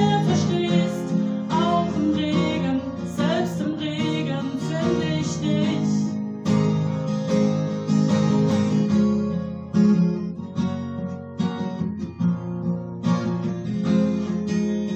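Acoustic guitar strummed as accompaniment to a song, with a singing voice over it in the first half.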